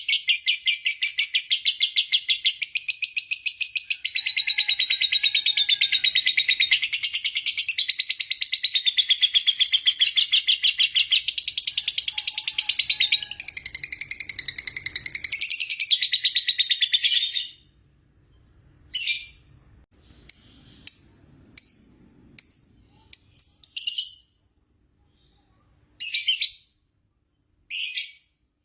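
Lovebird singing a long ngekek: a rapid, high-pitched chattering trill that runs unbroken for about seventeen seconds, then breaks off into short separate chirps.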